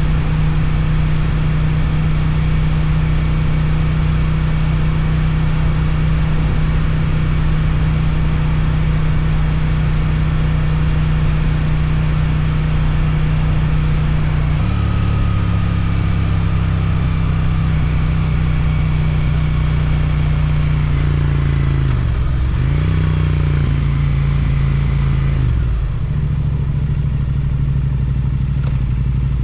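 Suzuki twin-cylinder motorcycle engine through an Akrapovic exhaust, running steadily under way. About halfway through the engine note steps up. Between roughly three-quarters of the way and near the end it drops and climbs a few times as the throttle is rolled off and on, then it settles back to a steady run.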